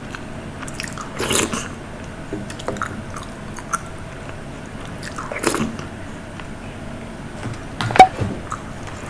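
Close-miked eating sounds: chewing and moist mouth noises with small clicks, swelling twice. About eight seconds in comes one sharp click, the loudest sound.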